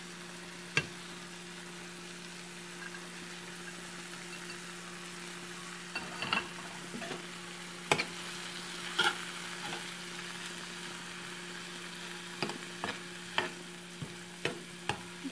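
Tomato, onion and garlic frying in oil in a pan with a steady sizzle. Short clinks and scrapes of utensils against the pan come now and then as spices are added and stirred in, most of them in the second half. A steady low hum runs underneath.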